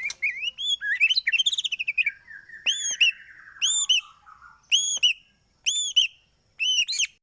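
White-rumped shama (murai batu) song: a run of varied whistles and warbled trills that glide up and down, then a single clear arched whistle repeated about once a second.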